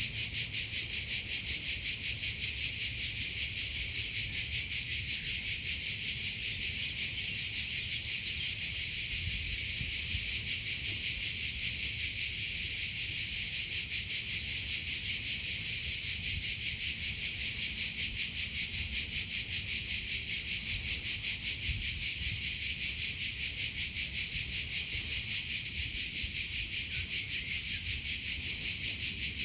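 Cricket chirping steadily in rapid, even pulses, high-pitched and unbroken.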